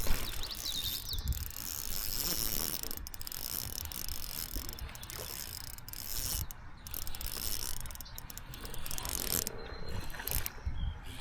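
Fishing reel being cranked to retrieve a topwater lure: a steady mechanical whirring that stops briefly several times between turns of the handle.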